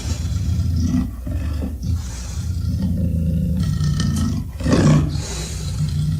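Tyrannosaurus rex roar sound effect: deep, rumbling roars in several long strokes with short breaks between them, the loudest swelling about five seconds in.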